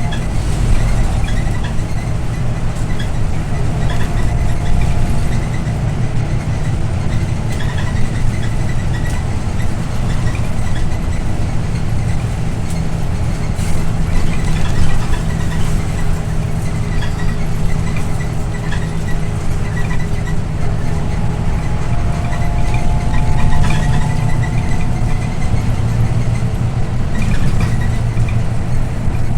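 Scania OmniLink I city bus under way, heard from on board: the engine runs with a steady low drone over road noise, and a faint whine comes and goes twice.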